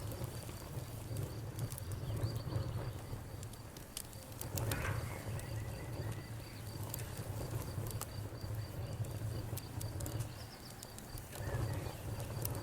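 Campfire crackling with scattered sharp pops over a low steady rumble, while an insect keeps up an evenly pulsed high chirping throughout.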